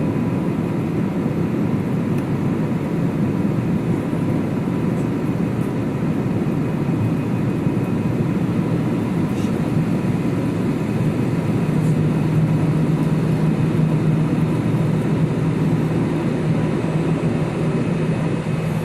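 Airbus A320's jet engines running during takeoff: a steady, dense rumble with a low hum that grows stronger about twelve seconds in.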